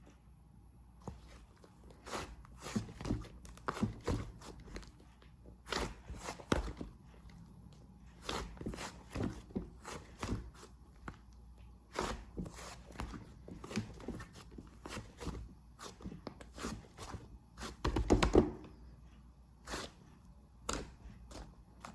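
A run of irregular soft knocks and clicks, some in quick clusters, with a denser flurry about eighteen seconds in.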